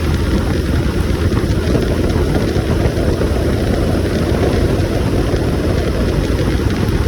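Motorcycle riding at speed: the engine running steadily under heavy wind rush on the microphone.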